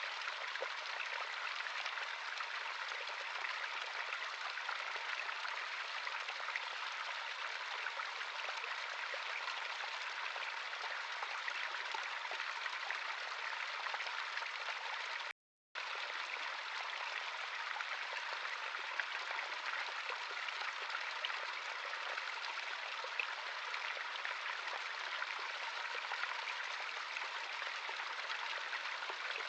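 Running water of a natural stream: a steady, even rush with little low rumble. It cuts out to silence for about half a second midway, then carries on unchanged.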